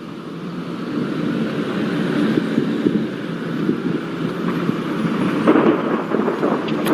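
Steady low rumbling wind noise, swelling briefly about five and a half seconds in.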